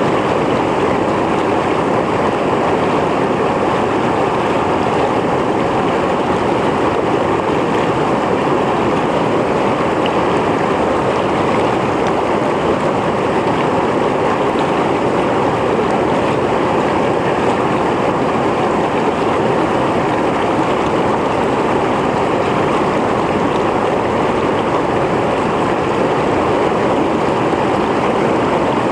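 Mountain stream flowing over rocks: a steady, even rush and gurgle of water.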